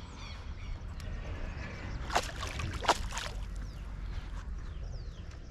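Water splashing in two short bursts, about two seconds and three seconds in, over a low outdoor rumble, with faint bird chirps.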